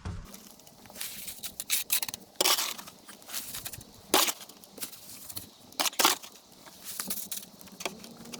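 Irregular gritty scraping and crunching, a dozen or so short strokes, the loudest about two and a half, four and six seconds in.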